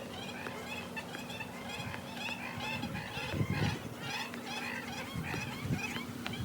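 A flock of water birds calling together at a pond: a dense chorus of short, repeated calls, many overlapping, with a few low thumps about halfway through.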